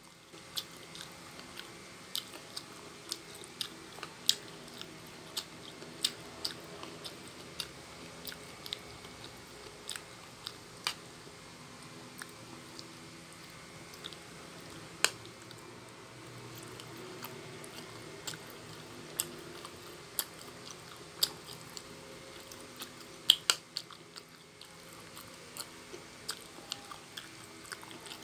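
A person chewing and biting fried potatoes and noodles close to the microphone, with many short sharp clicks every second or so.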